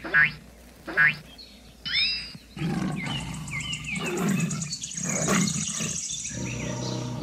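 Dubbed animal sound effects. Two short pitched animal calls come first, then from about two and a half seconds in a lion or tiger roars and growls without pause. A high insect-like buzz and bird chirps run behind the roaring.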